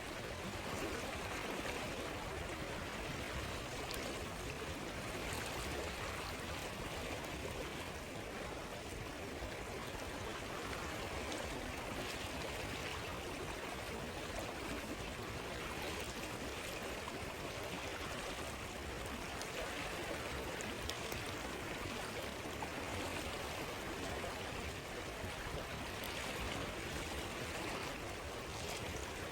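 Stream water flowing steadily over stones in an even rushing trickle, with a few faint clicks now and then.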